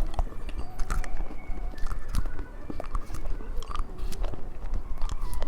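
Close-miked biting and chewing of a piece of watermelon bubble gum, with many small irregular sticky clicks and mouth sounds.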